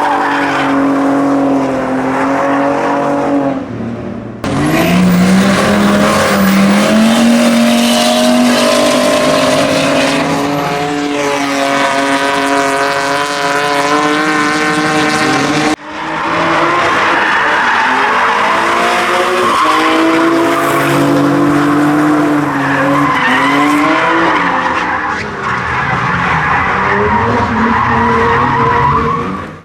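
Drift cars sliding, engines held at high revs and rising and falling, with tyres squealing. The sound breaks off abruptly and restarts about four seconds in and again about halfway through.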